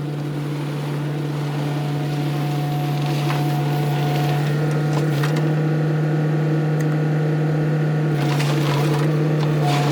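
Earthmoving machine's engine running steadily at constant speed, a deep even drone with a faint higher whine that comes and goes.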